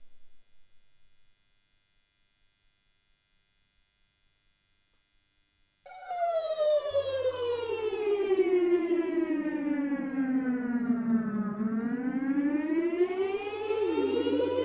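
A fading sound dies away into near silence, then about six seconds in a loud siren-like wail cuts in, sliding slowly down in pitch and then rising again near the end, over a low steady hum.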